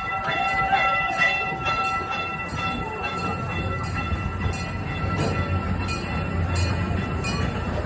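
Gas-powered replica steam train running along its track, heard from aboard: a steady low rumble with a steady high whine and repeated clicks from the wheels on the rails.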